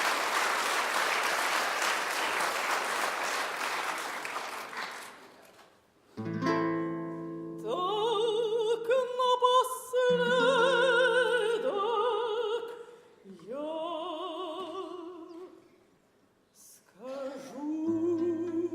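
Audience applause dies away over the first five seconds. Then piano-accompanied operatic singing begins: a classically trained voice holding long notes with wide vibrato, in phrases broken by short pauses.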